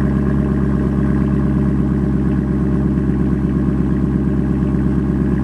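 2020 Camaro SS 1LE's 6.2-litre LT1 V8 idling steadily through a Borla S-Type axle-back exhaust, a deep, even burble that cuts off sharply at the very end.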